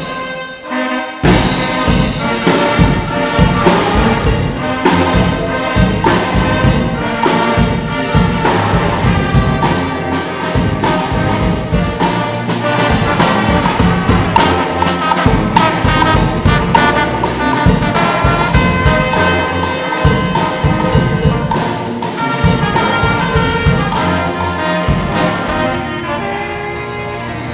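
A brass band playing: trumpets and trombones over percussion.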